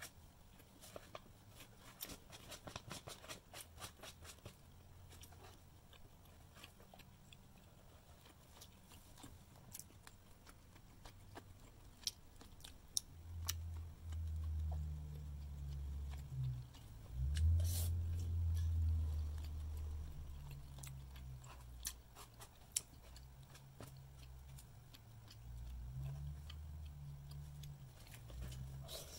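Close-up eating sounds: chewing, with a plastic spoon scraping and tapping rice off a paper wrapping in many small clicks. From about halfway through, a low rumble comes and goes, loudest a little after the middle.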